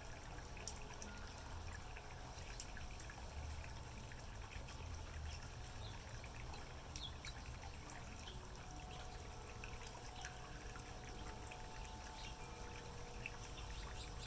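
Small backyard waterfall pouring and trickling steadily into a pond. Faint wind chime tones ring on for several seconds at a time, and birds chirp briefly now and then.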